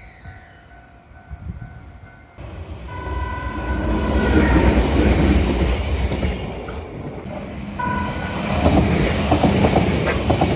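Shizuoka Railway (Shizutetsu) electric train sounding its horn: one held blast, then a short second toot about four seconds later, over the growing rumble of the train running close by. Rapid wheel clatter near the end.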